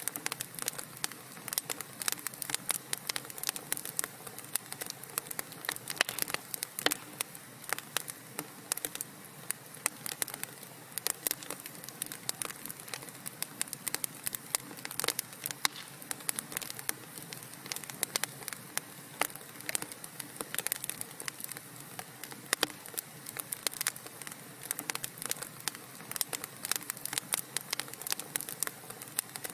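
Wood fire in a fireplace crackling: a steady soft hiss with dense, irregular sharp pops and snaps from the burning logs.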